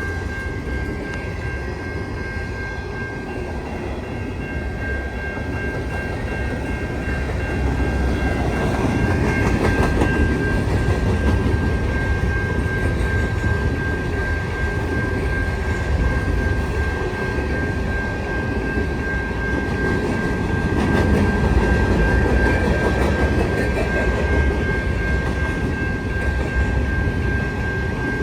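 Empty grain hopper cars of a long freight train rolling past, with a steady rumble and clatter of wheels on rail. A thin, steady high-pitched tone sounds throughout.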